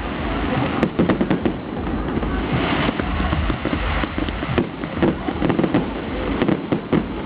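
Fireworks going off in quick succession: irregular bangs and crackling pops, several a second, over a low rumble.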